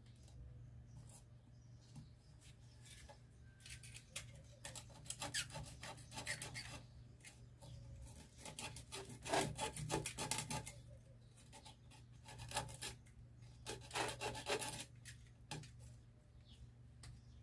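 Sandpaper being rubbed and pressed down by hand onto a wooden grinder disc, in three bouts of quick scratchy strokes. A low steady hum runs beneath.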